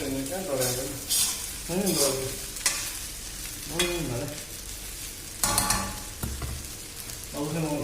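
Chow mein stir-frying and sizzling in a karahi, with a metal spatula scraping and clanking against the pan several times as it is stirred.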